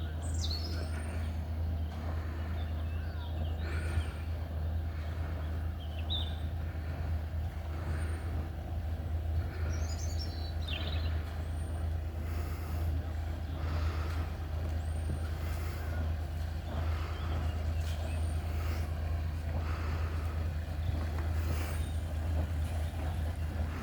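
Steady low engine drone, running evenly throughout, with faint short high chirps now and then.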